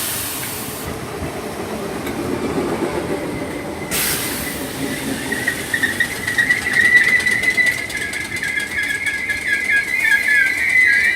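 Merseyrail Class 508 electric train pulling into the platform: a sudden burst of air hiss about four seconds in, then a high wavering squeal from the brakes and wheels that grows louder as the train slows.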